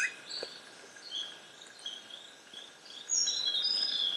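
Forest birds calling over a soft hiss of forest ambience: short, high whistled chirps every half second or so, with a louder run of notes, some higher and some sliding down, from about three seconds in.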